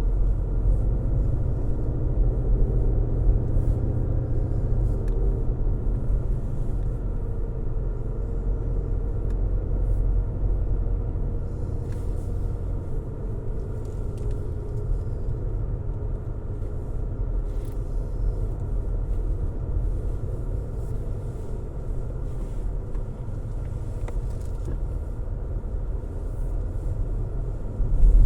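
Car driving along a road: a steady low rumble of road and engine noise with a faint wavering hum above it and a few soft ticks.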